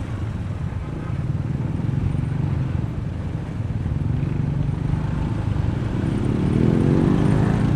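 Honda ADV160 scooter's single-cylinder engine running under way with road and wind noise, its note rising in pitch near the end as it speeds up.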